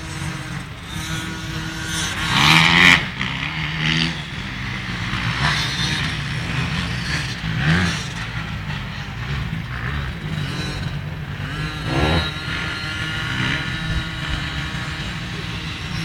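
Small motocross bike engine running, with several short rises in pitch as the throttle is blipped.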